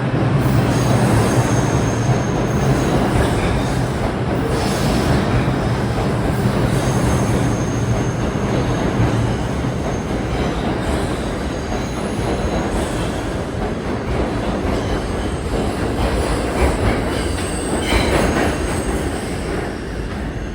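R142 subway train running on the rails, a steady rumble of wheels and motors with high wheel squeals coming and going. A low motor hum fades after the first few seconds, and the running noise eases slightly toward the end.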